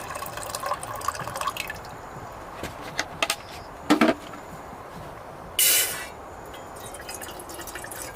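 Water being poured and dripping while tea is made, with a few small clicks, a couple of loud knocks about four seconds in, and a short sharp hiss a little past the middle.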